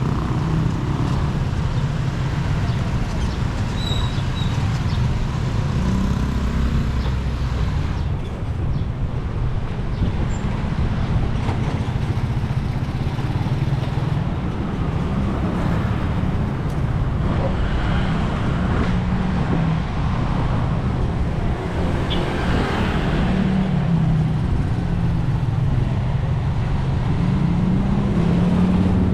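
Steady low rumble of road traffic, heard while riding along a street.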